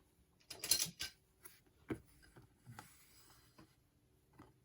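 Light handling sounds of trading cards and their plastic holders: a short rub about a second in, then a few soft clicks and taps.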